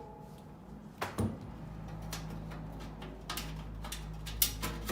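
Metal parts of an air handler's blower assembly being handled: a knock about a second in and a few lighter clicks later. A low steady hum comes in about a second and a half in.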